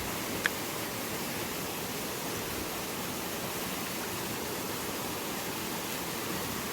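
Steady rush of flowing river water, with a single sharp click about half a second in.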